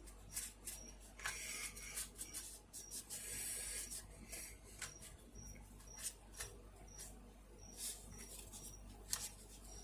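Faint rubbing of a cloth wiping down a box fan part, with light clicks and taps as the part is handled. There are two longer stretches of rubbing, about a second in and around three seconds in.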